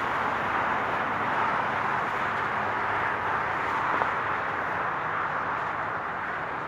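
Highway traffic: a steady rush of tyre and engine noise from passing vehicles, swelling a little in the first few seconds, with a faint click about four seconds in.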